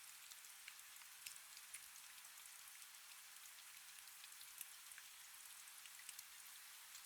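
Faint, steady rain: a soft hiss with many small, scattered drop ticks.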